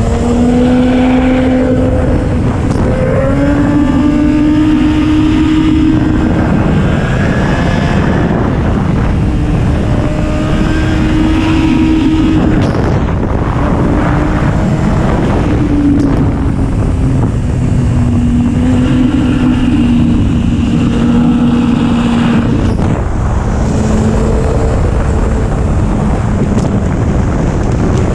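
2011 Kawasaki ZX-10R's inline-four engine running hard on the road, its pitch climbing and dropping again and again as the throttle is worked. Heavy wind rush on the microphone under it.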